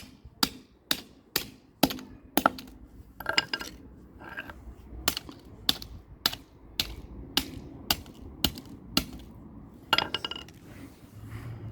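A plastic toy police car being struck over and over: sharp knocks about two a second, a few of them ringing briefly.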